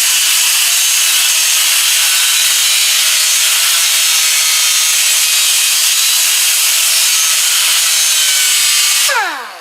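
Electric grinder running steadily, grinding built-up slag off the spot-weld dent puller's tip so it will work properly. It is switched off about nine seconds in and its whine falls in pitch as it spins down.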